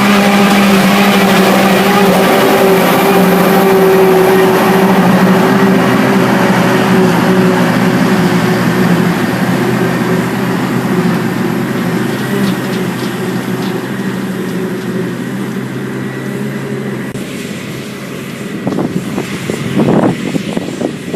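Large diesel engine of silage-harvesting farm machinery running steadily under load, fading gradually as it moves away. A few irregular knocks or buffets near the end.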